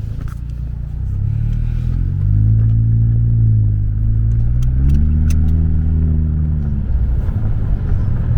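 Turbocharged 1.5-litre four-cylinder of a 2017 Honda Civic Touring pulling away under throttle. The engine note climbs, eases off as it changes gear about four seconds in, climbs again, then drops back near the end.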